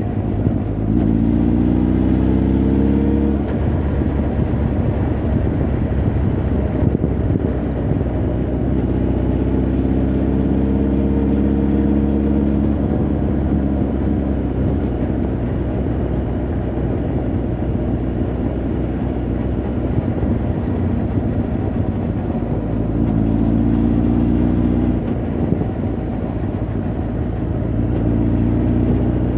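Honda CB1300 Super Bol d'Or's inline-four engine and exhaust while riding, heard from the rider's position. It runs steadily and rises in pitch under acceleration a few times: about a second in, around ten seconds in, and again near the end.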